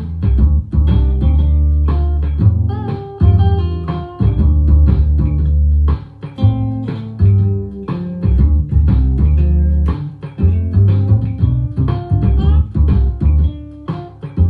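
Instrumental jazz-fusion jam in D minor: a plucked bass playing loud, low notes under a busy plucked guitar line.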